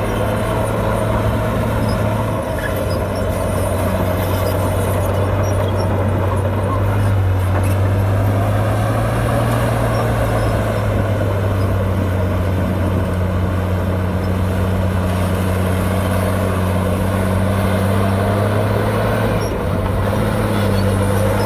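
Heavy diesel engine of an earth-moving machine running steadily without a break. Its note rises a little about a third of the way in, then eases back.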